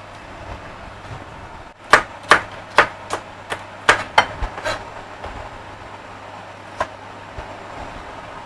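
Kitchen knife chopping red onion on a cutting board: a quick run of about nine sharp strokes, then a single stroke a couple of seconds later.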